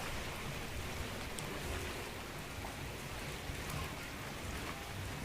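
Steady rain falling, with a few sharper drops landing close by.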